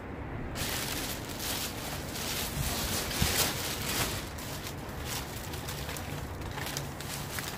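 Rustling and clattering of household items being rummaged through and pulled out of a bag, with a few louder knocks around the middle.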